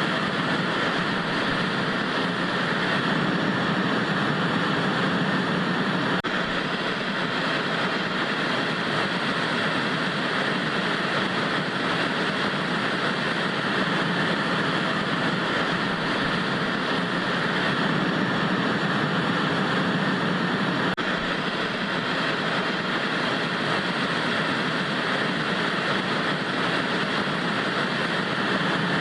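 Analogue TV static: a steady, unchanging hiss of white noise.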